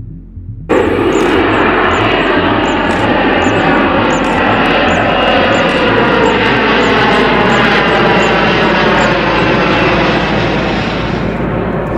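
Airliner jet engines running loud: a dense whine of many stacked tones over a steady rush of noise, cutting in suddenly under a second in after a low hum.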